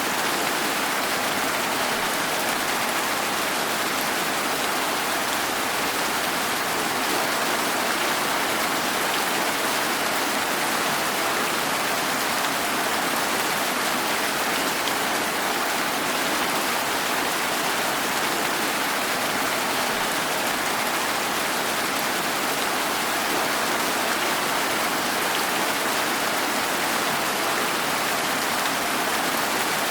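Steady rain falling, an even, unbroken hiss of drops on surfaces with no distinct drips or gusts.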